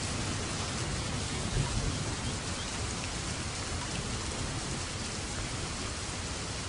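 Steady heavy rain falling, an even hiss of drops. A low thunder rumble dies away under it over the first couple of seconds.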